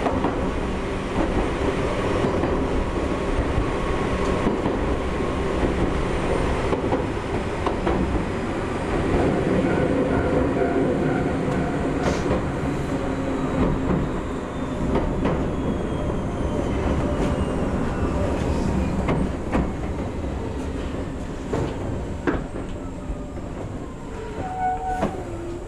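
Gakunan Railway 7000-series electric railcar running, heard from the cab: a steady rumble of wheels on rail with occasional sharp clicks over rail joints. A thin whine falls in pitch through the second half and the noise eases off as the car slows into a station.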